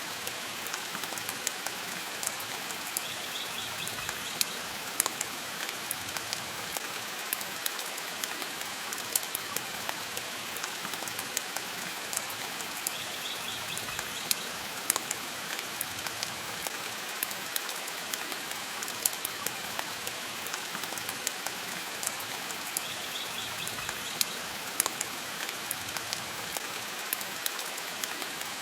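Steady rain hiss mixed with a wood fire crackling in a fireplace, sharp pops scattered irregularly over the even hiss.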